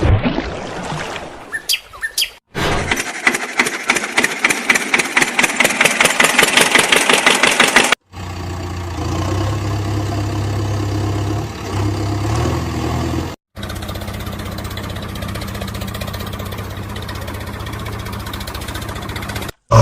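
Vehicle engine sounds in short pieces with brief dead-silent cuts between them. First comes a fast, even chugging that grows louder over several seconds, like an engine cranking and catching, then a steady engine idling.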